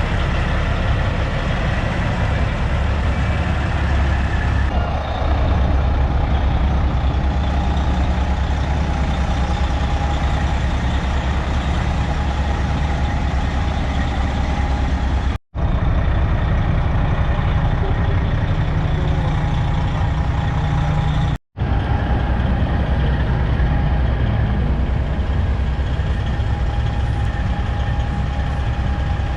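Heavy diesel trucks running as they roll in, a steady low engine sound with a faint steady whine above it. The sound cuts out for a moment twice, about halfway and about two-thirds through.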